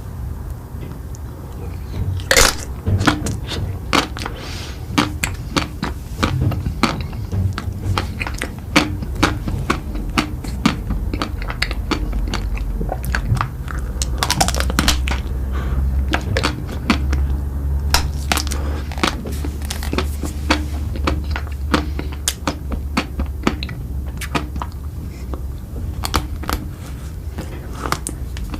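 Close-miked eating: a person biting and chewing crunchy food, with many sharp, irregular crunches and clicks.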